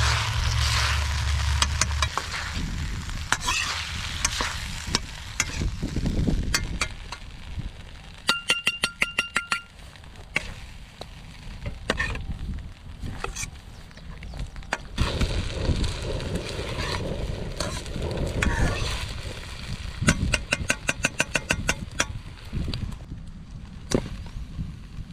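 Food sizzling in an iron wok while a ladle stirs and scrapes it, with two runs of quick ringing metal taps, about six a second, partway through and again later.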